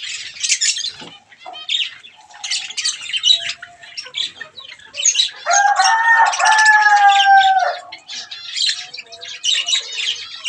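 Aviary budgerigars chattering and chirping continuously in a busy flock. About halfway through, a louder, drawn-out call from another bird lasts about two seconds.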